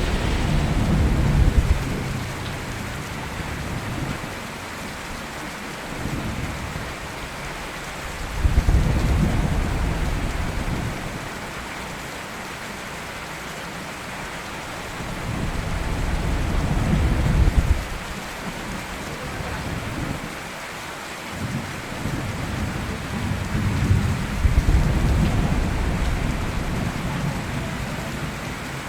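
Steady heavy rain with thunder rolling in long low rumbles that swell and fade, about four times, the strongest peals near the start, around a third of the way in, past the middle and near the end.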